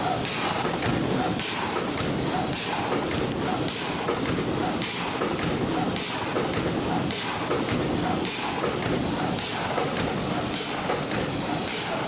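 SYF-16 fully automatic wet wipes making machine running, a steady clatter of mechanisms with a regular cycle repeating about every three-quarters of a second.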